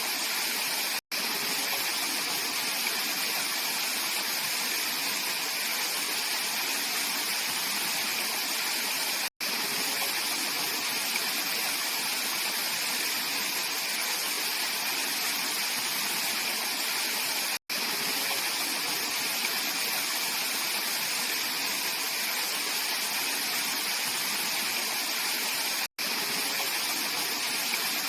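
Clear mountain stream rushing steadily over rocks. The sound cuts out for an instant four times, about every eight seconds.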